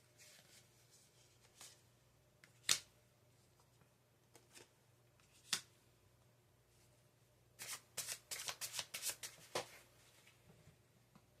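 Tarot cards being handled: two single crisp card snaps a few seconds apart, then a quick flurry of card flicks about two seconds long as the deck is shuffled.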